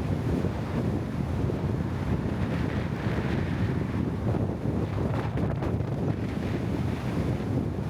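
Steady wind rumble on the microphone, with water washing along a bamboo raft on the river.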